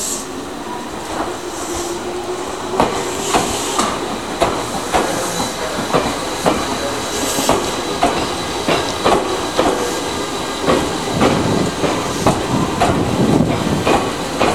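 Meitetsu electric train pulling away from the platform, its motors whining in a slowly rising pitch as it gathers speed, while its wheels click over the rail joints, the clicks coming faster and faster as the cars pass.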